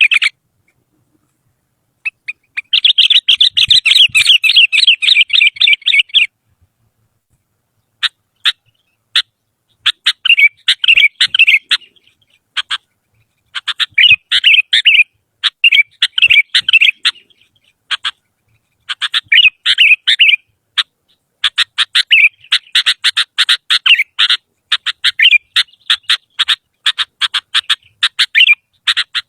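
Sooty-headed bulbul (kutilang) singing in rapid runs of short chattering notes. There is one long phrase near the start, then several shorter bursts separated by brief pauses.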